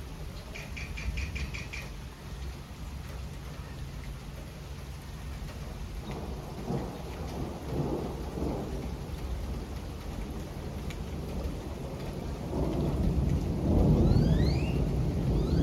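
Steady rain falling, with thunder rumbling: a low roll about six seconds in, then a louder, longer roll building from about twelve seconds on.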